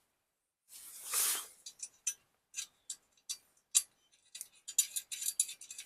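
Metal hardware clinking and ticking as a deflector is bolted onto a stump grinder's steel flange. A soft scrape about a second in, then scattered sharp ticks that come quicker near the end.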